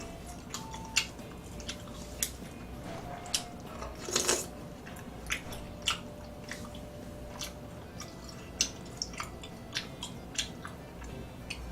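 A person chewing and eating food close to the microphone, with irregular wet clicks and smacks and one longer, louder mouth noise about four seconds in.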